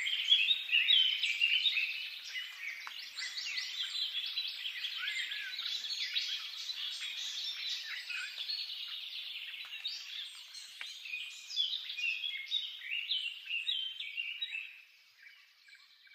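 Many small birds chirping and singing at once in a dense, continuous chorus of short chirps and trills, fading out near the end.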